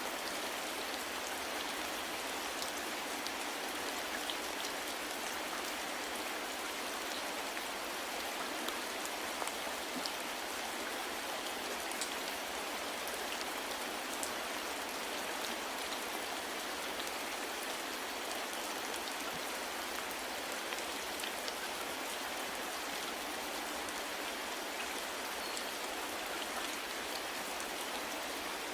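Steady rain falling, with many small individual drops pattering on a surface.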